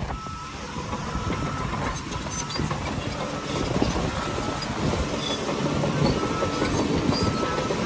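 Shantui crawler bulldozer running and moving, its engine noise mixed with a steady clanking rattle of the steel tracks.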